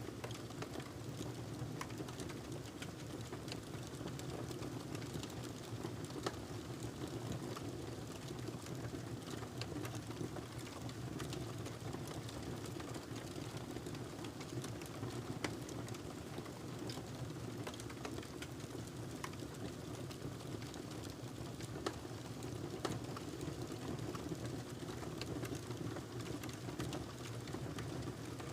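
Wood fire burning with a steady low rush and a constant patter of small crackles, broken by a few louder pops.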